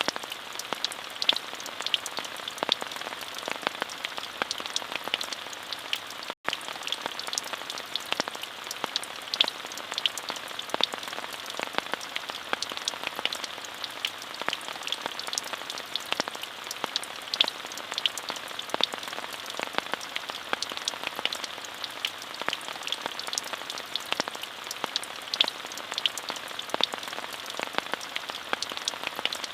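Steady rain falling, an even hiss with many individual drops ticking sharply on a close surface. The sound cuts out for a split second about six seconds in.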